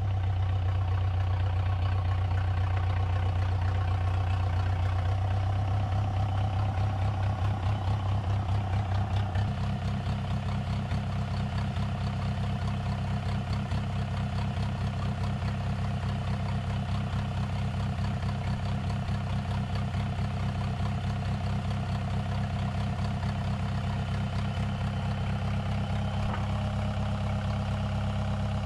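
Homemade mini loader's engine idling steadily, its low drone shifting in pitch and dropping slightly in level about nine and a half seconds in.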